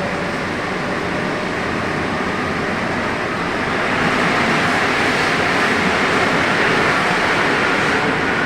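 NS-74 rubber-tyred metro train running, a steady rushing noise with faint whining tones that grows louder about four seconds in.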